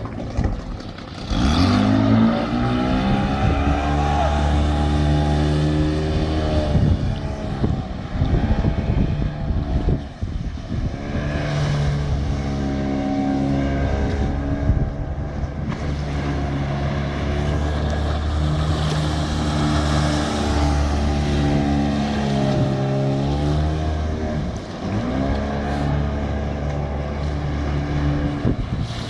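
Outboard motor running at high revs, revving up sharply at the start. Its pitch then drops and climbs again several times as the throttle is eased and reopened through hard turns.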